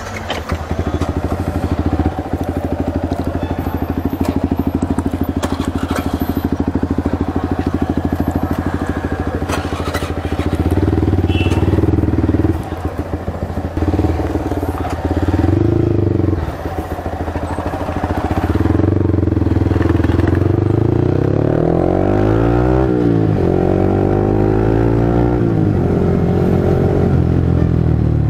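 Yamaha R15 V3's single-cylinder engine idling with a fast, even beat, revved a few times after about ten seconds, then pulling away with its pitch rising and falling through the gears.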